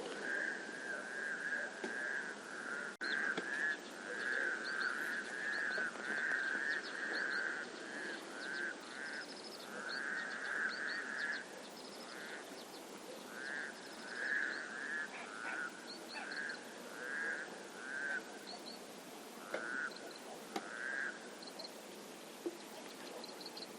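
Frogs croaking in a chorus: runs of rapid, pulsed calls, close together at first and then in separate bouts that stop near the end. Small birds chirp high above them over a steady outdoor background.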